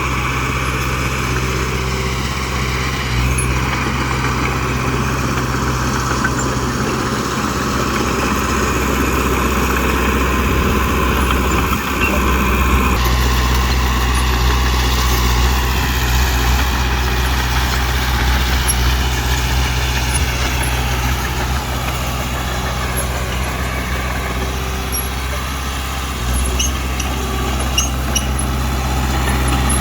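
Heavy diesel engine of a working machine running steadily, with a change in its note about thirteen seconds in.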